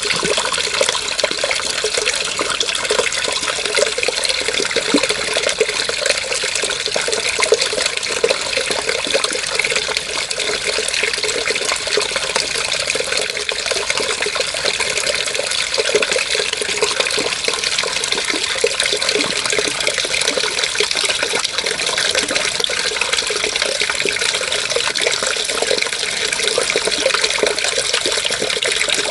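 Running water, a steady even rush with no pauses.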